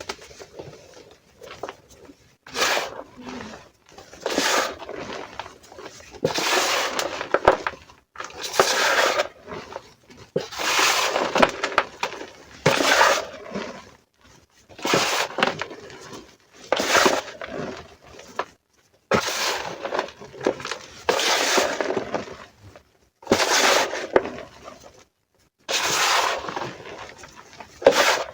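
Reformed gym chalk being crushed, crunching and crumbling into powder in about a dozen separate squeezes, roughly one every two seconds.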